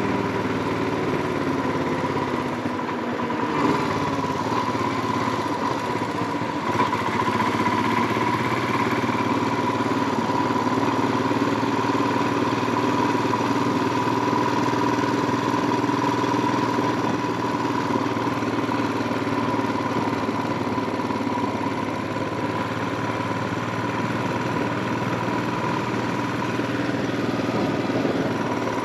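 Royal Enfield Himalayan 411's single-cylinder engine running on the road. Its note drops over the first few seconds and then holds steady.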